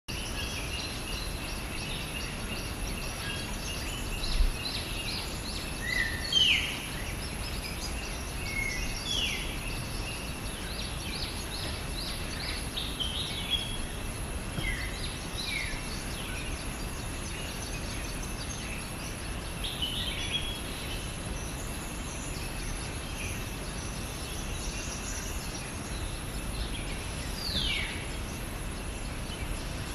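Several birds calling and chirping, with short notes scattered throughout and a few clear downward-sweeping calls, over steady background noise and a thin, steady high-pitched tone. A brief low thump comes about four seconds in.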